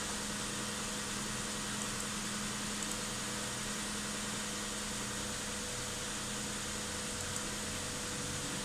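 Hyundai Santa Fe V6 engine idling steadily while still cold, at about 39 °C, shortly after a cold start.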